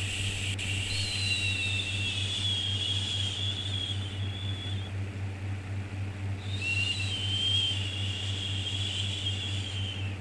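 Long 'shhh' shushing for soothing a baby, held for about five seconds, breaking off briefly and starting again, over a steady low hum.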